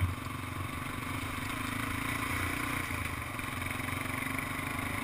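Big Honda ATV engine running steadily under a continuous hiss.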